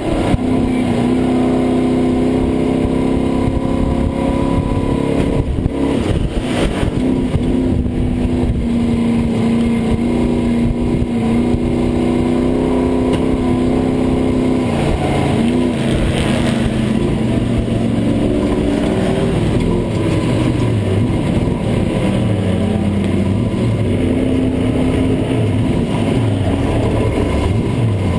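Pro Truck race engine running at fairly steady revs, heard from inside the cab, with the pitch easing off and climbing back a few times about midway and later.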